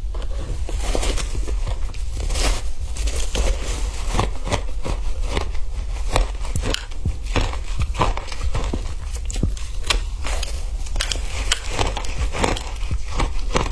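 Frozen ice being bitten and chewed, a quick, irregular run of crunches and cracks close to the microphone, over a steady low hum.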